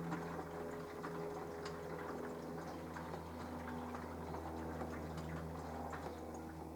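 Minicolo mini washing machine running a wash cycle: a steady motor hum, with water sloshing and small clicks and taps from the load in the drum. A lower hum comes in right at the start.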